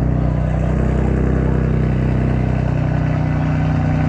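Turbocharged Mitsubishi Lancer Evolution VIII four-cylinder engine running steadily at low revs.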